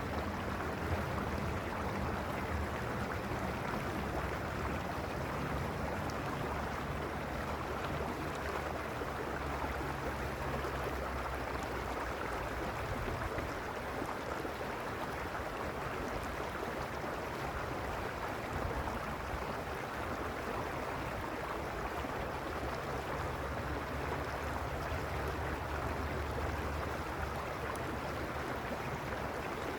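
Creek water rushing steadily, an even unbroken noise, with a low rumble underneath that fades and returns.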